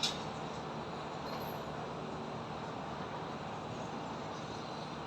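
Steady hum of highway traffic mixed with construction-site noise, with a single sharp knock right at the start.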